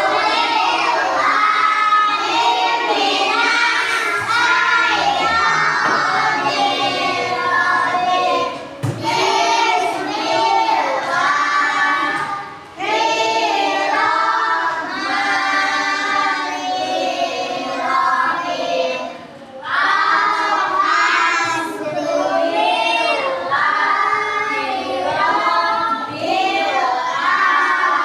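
A class of young schoolchildren singing together in unison, loudly, in phrases with brief pauses between them.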